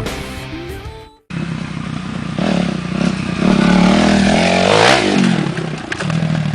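Dirt bike engine revving: the pitch climbs and gets loudest a few seconds in, then drops away and settles lower near the end. Music fades out in the first second.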